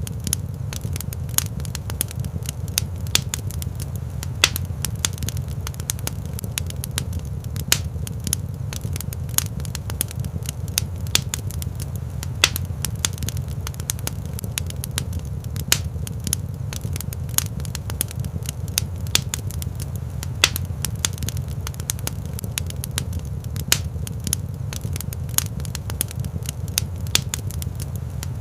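Wood fire crackling in a stone fireplace: many sharp, irregular pops and snaps over a steady low rumble from the flames.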